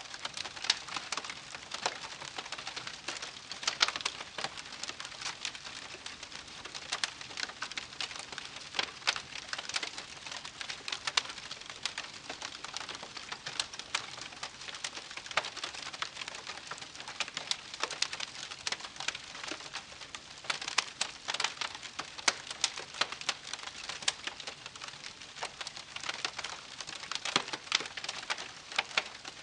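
Wood campfire crackling, with a continual scatter of irregular sharp pops and snaps over a soft hiss.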